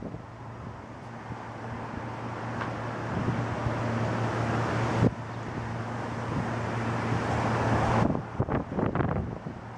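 Strong storm wind buffeting the microphone, building steadily for several seconds over a steady low hum, then dropping off abruptly near the end. A single sharp click comes about halfway through.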